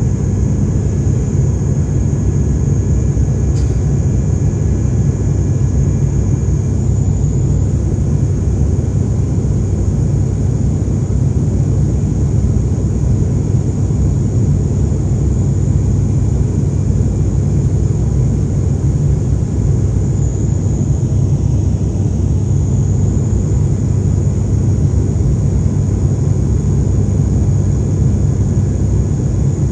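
Aircraft cabin noise in flight: a steady, loud rumble of engines and airflow, with a thin high whine running over it.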